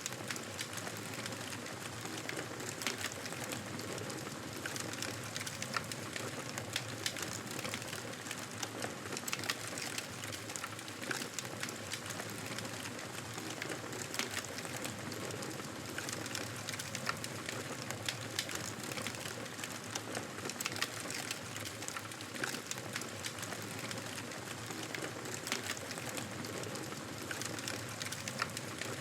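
Wood fire crackling in a fireplace: a steady hiss dotted with many small, irregular pops and snaps.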